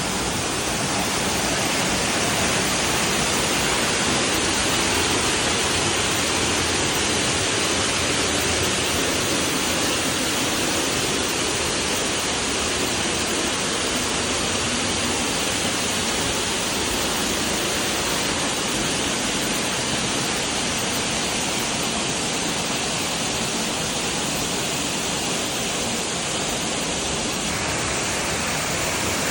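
Steady, even rush of running water, like a stream or small waterfall at a natural spring.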